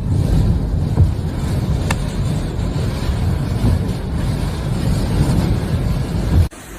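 Strong wind buffeting the microphone: a heavy, gusting low rumble. It cuts off sharply near the end, giving way to a quieter, hissier wind.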